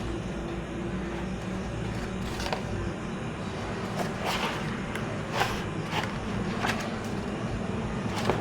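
Book pages being turned by hand: five quick paper swishes over a steady low hum.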